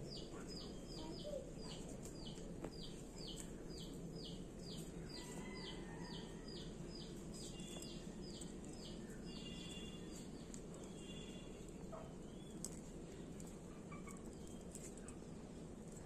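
A bird chirping in a steady run of short, high, falling notes, about three a second, that fades out after about ten seconds and gives way to a few scattered fainter calls.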